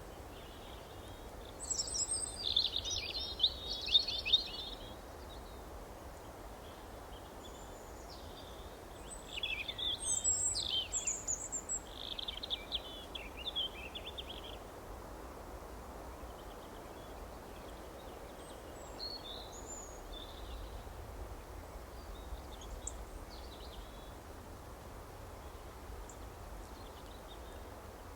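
Songbirds singing over a steady background hiss: two loud bursts of rapid twittering song, one about two seconds in and another around ten seconds, then only faint distant chirps.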